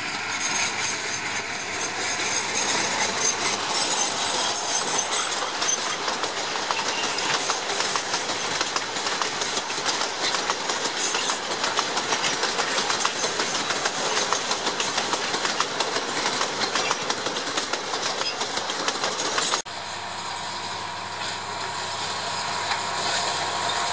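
Narrow-gauge peat train rolling past: a long rake of steel peat wagons rattling and clattering over the rails in a dense, continuous clatter. After an abrupt drop near the end, a quieter steady locomotive engine hum as another train approaches.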